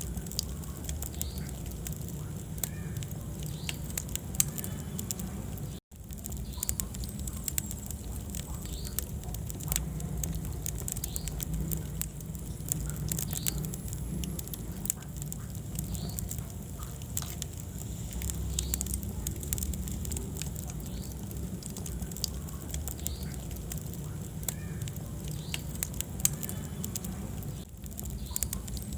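Wood fire burning in a fireplace: a steady low rumble of flames with frequent sharp crackles and pops from the burning logs. The sound cuts out for an instant about six seconds in.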